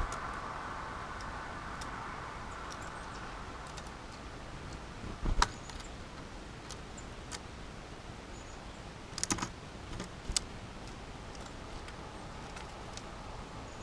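Birds pecking and tapping at a suet feeder: sharp scattered clicks, a cluster of them about nine seconds in, over the faint hiss of a passing car that fades in the first few seconds.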